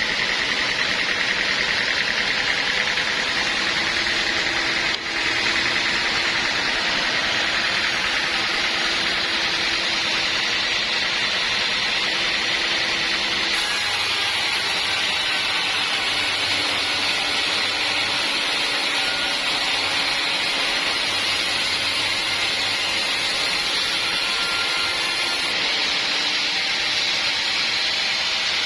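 Sawmill saw running steadily through an acacia log, a loud, even cutting noise with a brief dip about five seconds in.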